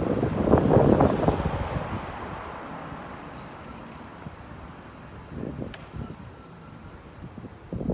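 A train running by on the rails, loudest in the first two seconds and then fading away, with thin high squeals from the wheels on the rails as it goes.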